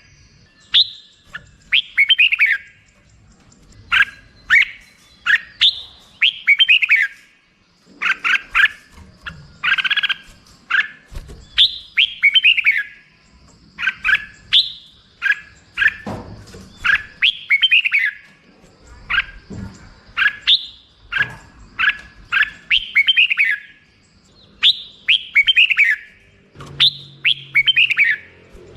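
Red-whiskered bulbul singing: short, bright phrases of quick notes that sweep downward, repeated every second or two.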